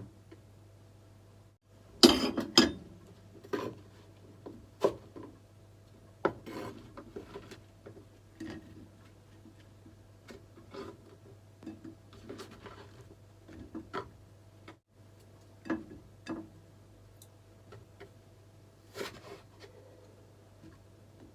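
Kitchen work sounds: scattered knocks, clinks and scrapes of utensils and dishes, loudest about two seconds in, over a steady low hum.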